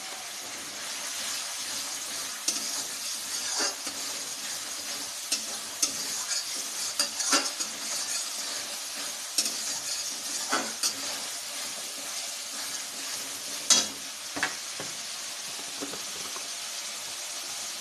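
Onion-tomato masala frying in oil in a pan with a steady sizzle, while a spatula stirs it and now and then knocks and scrapes against the pan.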